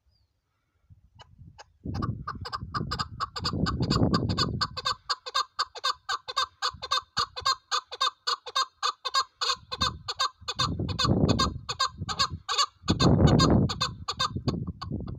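Chukar partridge calling: a long, fast, rhythmic run of clucking notes, about four a second, that starts about a second in and keeps going. A low rumbling noise swells up underneath it three times.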